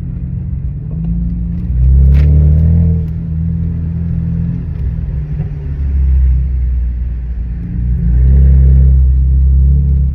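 Exhaust of a 2007 BMW 335i's N54 twin-turbo inline-six, straight through with catless downpipes, no secondary cats and no mufflers, running with a loud, deep drone. It swells louder twice, about two seconds in and again around eight seconds.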